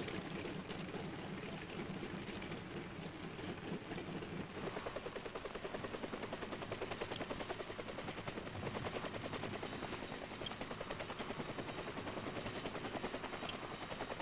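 Military helicopters in flight: a steady engine and rotor noise that settles into a rapid, even rotor beat from about four and a half seconds in.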